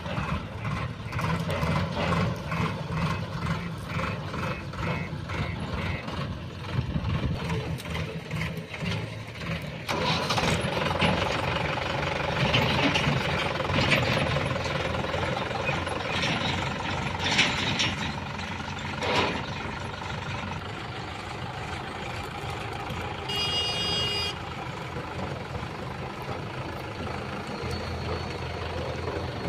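A JCB backhoe loader's diesel engine working under load, with tractor engines running alongside. A regular beeping about twice a second runs for the first six seconds. The engine grows louder about a third of the way through, with a few knocks in the middle.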